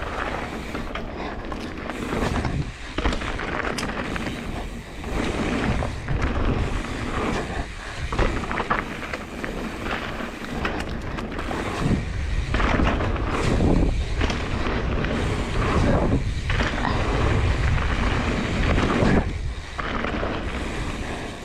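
Wind buffeting the microphone, with rough rolling and scraping noise while riding down a jump line. The noise dips briefly several times along the way.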